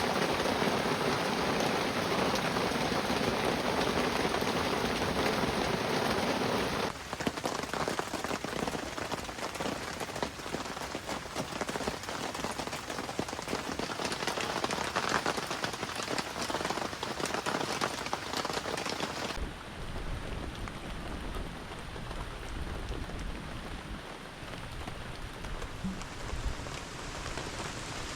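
Heavy rain falling steadily. It drops abruptly in loudness about a quarter of the way in and changes again about two-thirds through, becoming softer with a deeper rumble underneath.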